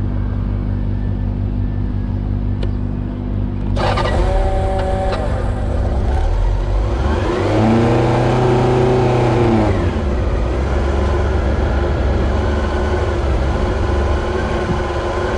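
Honda CB750 inline-four motorcycle engine running steadily, then under way: wind noise comes in about four seconds in, and the engine note rises and then falls again about halfway through.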